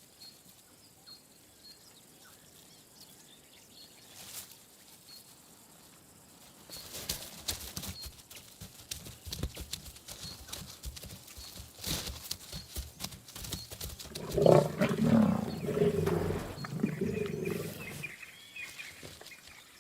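Lions growling and snarling at a kill of a young giraffe, loudest in a long bout in the last third. Before it comes a stretch of scuffling and thuds, and the opening seconds hold only faint regular chirps.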